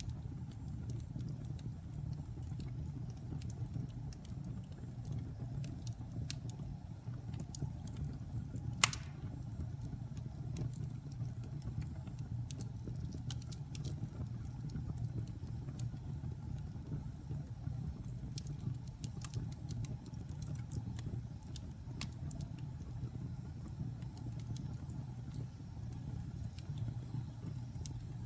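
Campfire logs burning and crackling: scattered sharp snaps and pops over a steady low rumble, with one much louder pop about nine seconds in.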